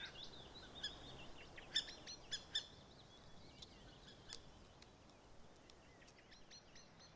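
Faint bird calls: short, high chirps, several in the first few seconds and only a few after, over a quiet hiss of forest ambience.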